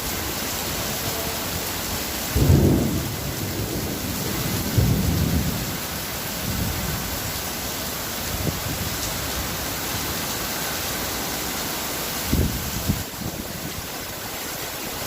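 Heavy rain, a steady hiss throughout, with low rumbles swelling up about 2.5 seconds in, again about 5 seconds in, and briefly near the end.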